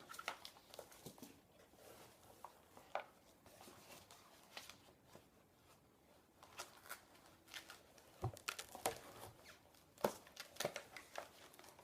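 Packaging being handled and unwrapped: crinkling, rustling and tearing, with scattered light clicks and taps, busier in the last few seconds.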